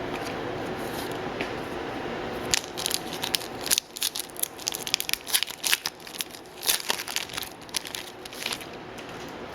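Wrapper of a hockey trading-card pack crinkling as it is handled, a rapid run of sharp crackles starting about two and a half seconds in and going on until near the end.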